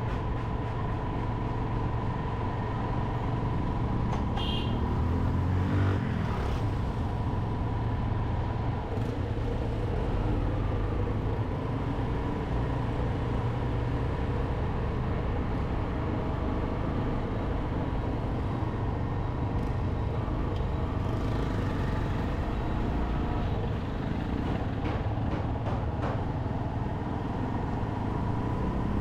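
Motorcycle engine running steadily while riding, with road noise; the engine note rises briefly about five seconds in.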